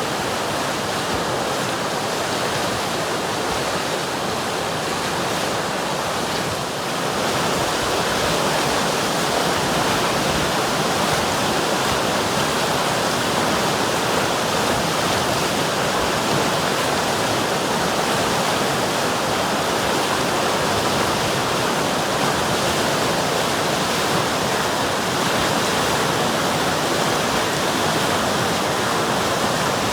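River water rushing and flowing in a steady full hiss, a little louder from about seven seconds in.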